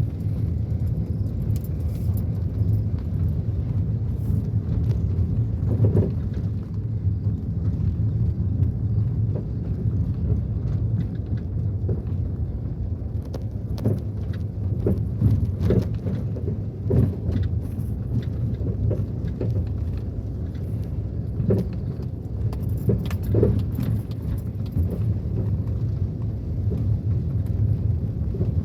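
A car driving, heard from inside: a steady low road rumble with frequent small rattles and knocks from the cabin over the bumps.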